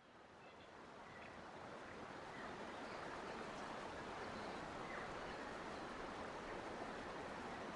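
Steady rush of flowing stream water fading in over the first couple of seconds, with a few faint bird chirps above it.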